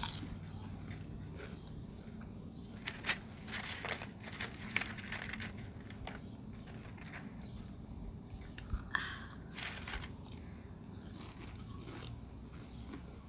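A person crunching and chewing snack food, with clusters of sharp crunches about three to five seconds in and again around nine to ten seconds.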